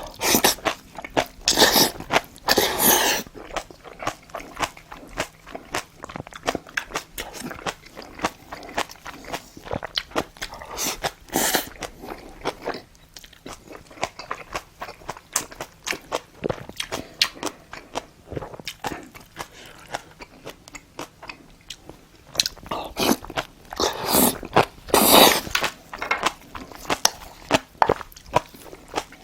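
Close-miked chewing and biting of spicy braised monkfish (agujjim): a steady run of wet mouth clicks, with louder eating noises about two seconds in, around eleven seconds and again from about twenty-two to twenty-six seconds.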